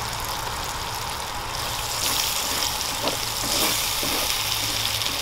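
Steady sizzling hiss of food frying in a pan, with a faint low hum underneath.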